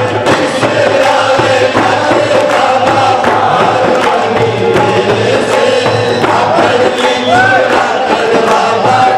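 Devotional bhajan sung by voices together to a steady drum beat, the singing held in long wavering notes.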